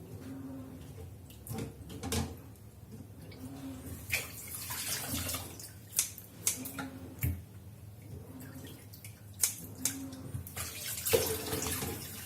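Kitchen tap water running and splashing in short spells, heaviest about four seconds in and again near the end, with scattered clicks and knocks from hands working in a bowl or sink while raw shrimp are peeled and rinsed.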